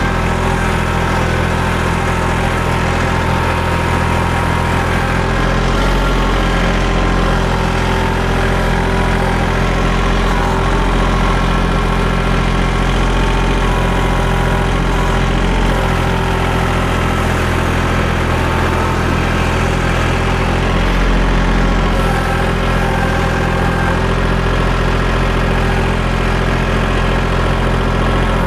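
Engine of a portable bandsaw sawmill running steadily at constant speed.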